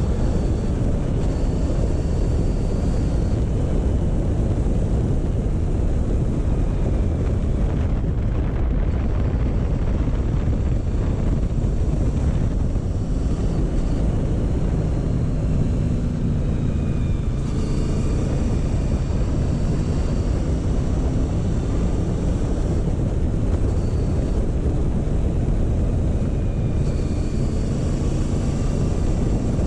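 Motorcycle engine running at a slow road pace under a steady rumble of wind on the microphone, its pitch rising and falling slightly now and then.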